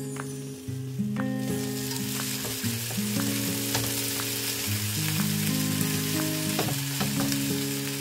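Gyoza pan-frying in a skillet, sizzling in the oil once the glass lid comes off about a second and a half in; the steaming water has cooked off. Soft background music plays underneath.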